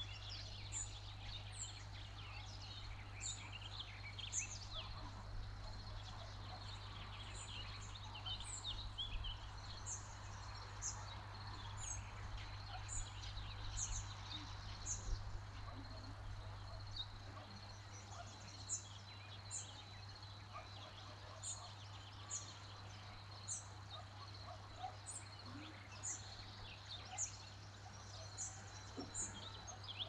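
Songbirds calling in a mixed chorus, one bird repeating a short, very high note about once a second above the rest. A low steady hum runs underneath.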